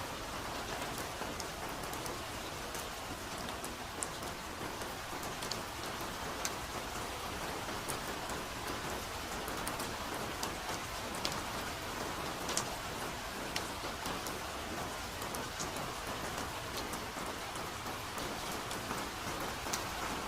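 Steady soft rain falling in a forest, an even hiss with individual drops ticking sharply here and there.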